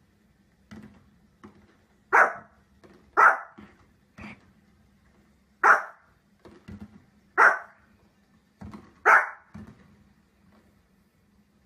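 A dog barking in single sharp barks, five loud ones about one to two seconds apart, with fainter short sounds in between.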